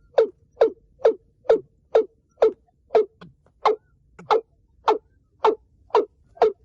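Watercock calling: a steady series of short repeated notes, about two a second.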